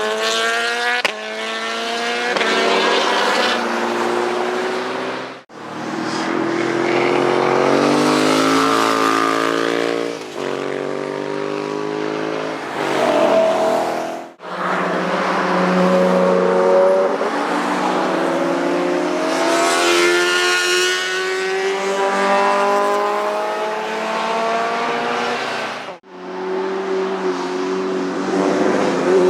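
Sport motorcycle engines passing at speed, the pitch climbing and falling as they rev through the gears. The sound breaks off abruptly three times, at edits between clips.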